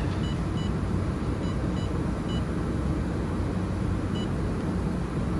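Short high beeps from the laser welder's touchscreen control panel as it is tapped through the language menu, about six at irregular intervals over a steady low hum.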